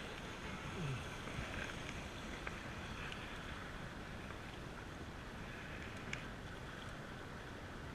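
Steady rush of river water around a canoe, with a few faint clicks.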